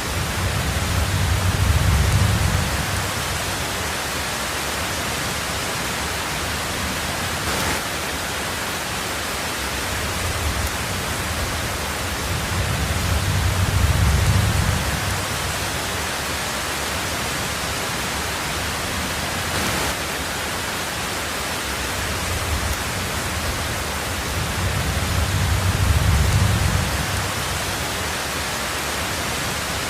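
Heavy rain falling on a tin roof, a steady even hiss, with a deep rumble of thunder swelling and fading three times, about twelve seconds apart.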